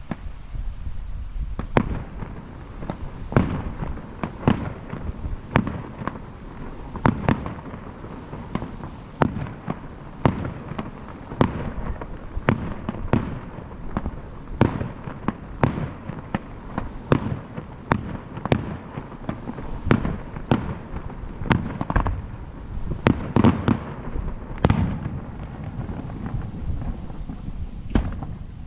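Fireworks bursting overhead in a rapid barrage, several sharp bangs a second, each trailing off in a rumbling echo.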